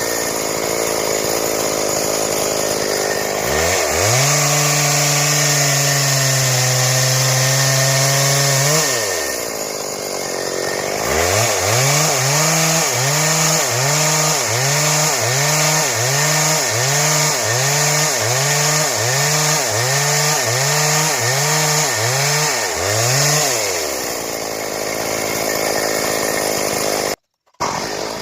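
Two-stroke Stihl chainsaw running hard while cutting wood into boards. It holds a high steady pitch for several seconds, then its pitch swings up and down about once a second as the bar loads and unloads in the cut. It then drops back to a lower speed near the end, with a brief dropout just before the end.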